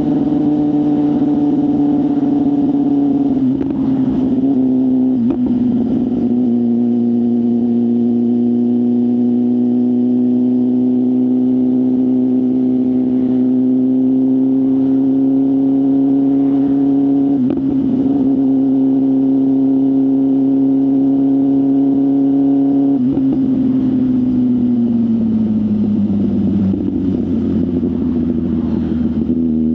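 BMW S1000RR inline-four engine with a full exhaust system, running at steady speed under a light throttle. Its pitch steps down a little about three and a half seconds in, holds steady, then falls gradually near the end as the bike slows.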